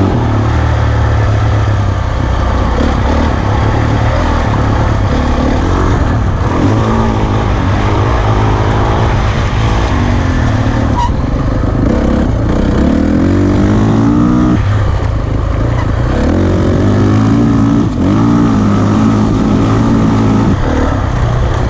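2009 450 cc four-stroke dirt bike engine being ridden along a trail, its pitch rising and falling again and again with the throttle over a steady rush of noise.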